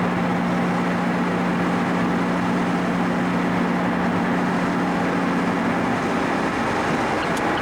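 Car engine holding a steady drone at cruise, heard from inside the cabin over even road and tyre noise. The engine note shifts slightly near the end, and there is a single sharp click.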